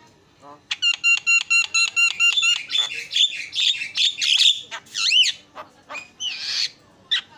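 Javan myna singing: a fast run of repeated ringing notes about a second in, then varied chattering, slurred whistles and a harsh screech near the end.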